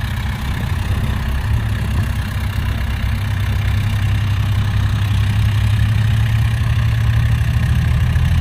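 Heavy diesel engine of a truck or bulldozer running steadily at low revs, growing slowly louder.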